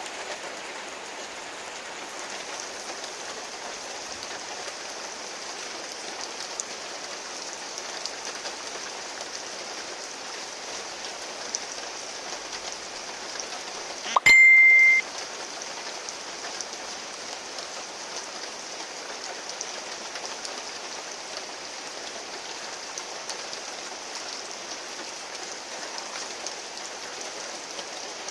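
Heavy rain falling steadily, an even hiss. About halfway through, a sudden loud high beep lasting under a second cuts over it.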